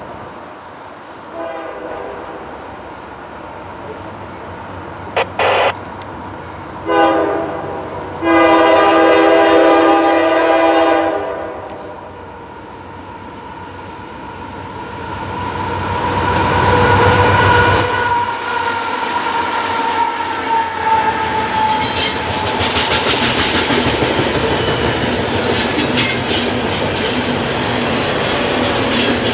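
CSX freight train's diesel locomotive sounding its horn as it approaches: a couple of short blasts, then a long one lasting nearly three seconds. The locomotive then passes with a slightly falling whine, followed by the rumble and clickety-clack of loaded refrigerated boxcars rolling past.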